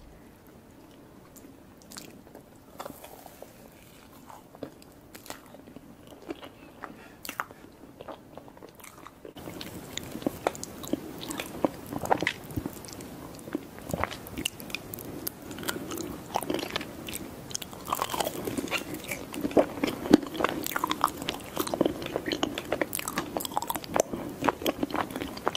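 Close-miked ASMR eating of mousse cake: soft, sticky chewing and wet mouth clicks. The sounds are sparse and quiet at first, then louder and denser from about nine seconds in.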